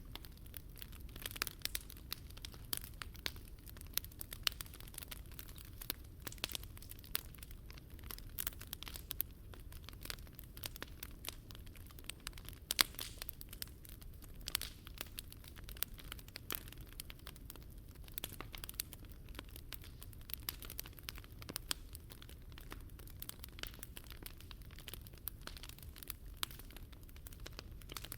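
Wood fire crackling and popping in a Picogrill 398 fire pit: dense, irregular snaps over a steady low rumble, with one sharper pop about halfway through.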